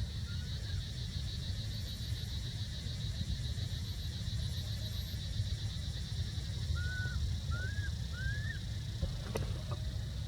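Outdoor ambience: a low rumble and a steady, finely pulsing high buzz run throughout. Faint very high chirps come early, three short arched chirps follow in the second half, and a single sharp click comes near the end.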